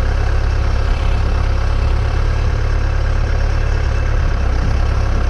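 Tractor engine idling steadily with a low rumble.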